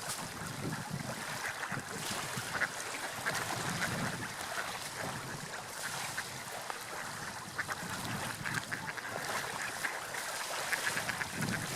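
Seagulls calling, many short calls repeated throughout and coming thicker toward the end, over a steady wash of sea waves and wind.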